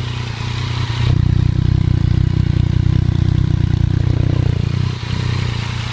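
Yamaha FZ-09 inline-three engine idling through an M-4 aftermarket exhaust with the catalytic converter box removed and the dB-killer baffle in place, run while the pipe joints are checked for leaks. The steady exhaust note gets a little louder about a second in and dips briefly near the end.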